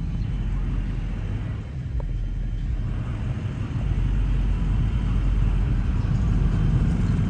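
Steady low rumble of a truck's engine and road noise while driving, a little louder from about four seconds in.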